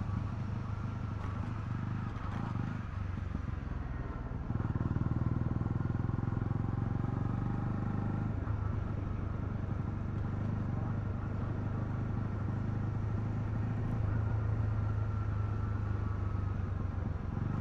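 Honda CL250 motorcycle engine running steadily while riding, getting louder about four and a half seconds in.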